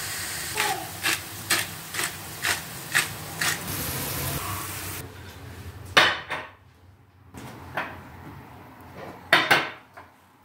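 Cutlery clinking against dishware about seven times in an even rhythm, roughly twice a second, over a steady hiss. The hiss cuts off about five seconds in, and a few separate knocks and clatters of dishes follow.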